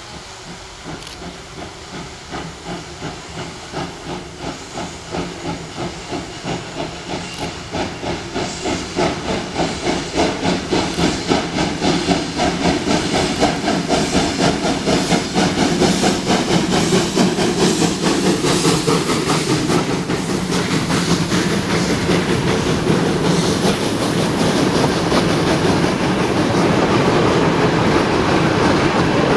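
Steam locomotive working under steam and approaching, its exhaust chuffs at about two a second growing louder and closer together, then blending into a steady rush of steam and clatter about two-thirds of the way in.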